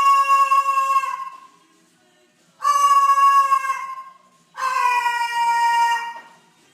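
Three long, meow-like animal calls, each about a second long with a short gap between, steady in pitch and falling slightly at the end.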